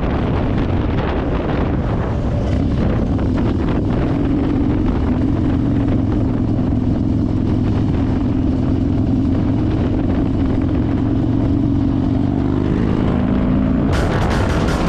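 Motorcycle engine running steadily under way, with wind buffeting the microphone; the engine note climbs a little near the end. Music comes in over it about a second before the end.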